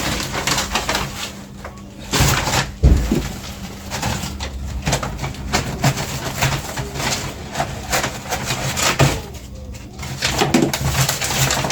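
Plastic grocery packaging crinkling and rustling as items are handled, with light knocks and a heavier thump about three seconds in as something is set down.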